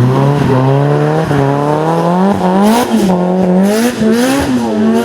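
Race car engine at full throttle on a hill-climb run. Its note climbs steadily for about two seconds, then falls and climbs again several times as the revs change through the gears, with sharp crackles in the second half.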